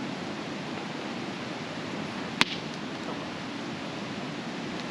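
Steady outdoor hiss with one sharp, loud pop about halfway through.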